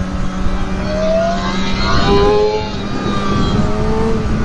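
Sportbike's inline-four engine accelerating: its pitch rises, drops with an upshift about two seconds in, then rises again. Wind noise rushes over the microphone throughout.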